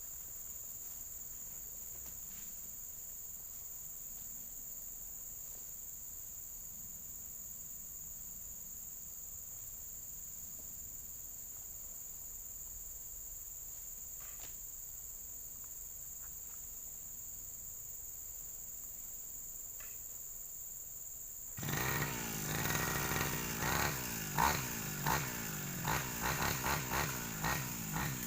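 A steady high insect drone over quiet background. About 22 seconds in, a brush cutter's small engine starts up and runs loudly, revving up and down unevenly as cutting begins.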